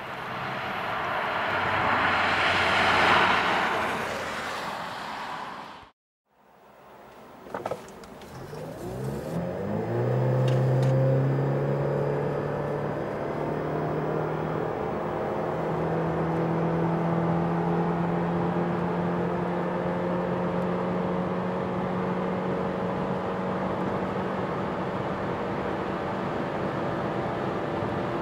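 A Lexus IS 300h hybrid sedan sweeps past on a wet road, its tyre hiss swelling and fading over a few seconds. After a brief silence, on board at full throttle, the 2.5-litre four-cylinder engine rises quickly in pitch, then holds a nearly steady drone that climbs only slowly as the e-CVT keeps revs near constant while speed builds.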